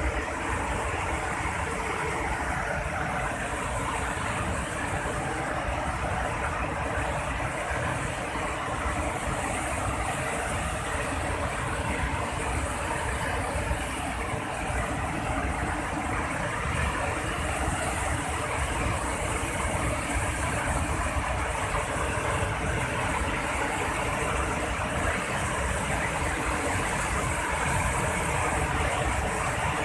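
Waterfall in heavy rainy-season flow: a steady, unbroken rush of falling water.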